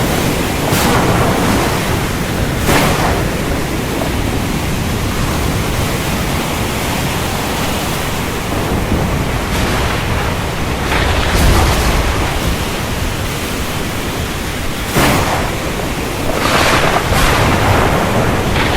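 Heavy rain falling steadily as a dense hiss, with thunder cracking several times: near the start, a stronger crack and low rumble about halfway through, and twice more near the end.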